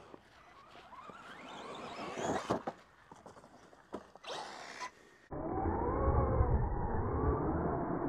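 Arrma Gorgon RC truck's 3800 kV brushless motor whining and rising in pitch, with a few sharp knocks. About five seconds in the sound switches abruptly to a louder, muffled, deeper rumble with wavering tones.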